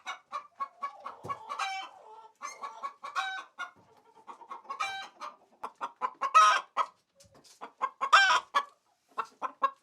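Hen cackling its egg song: a run of quick clucks broken by a louder drawn-out call about every second and a half, the calls growing louder after about six seconds. The cackle is the kind a hen gives after laying an egg.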